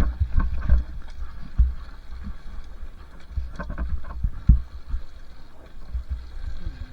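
Two-stroke dirt bike on a trail ride: a low rumble with irregular knocks and thumps, with wind on the microphone.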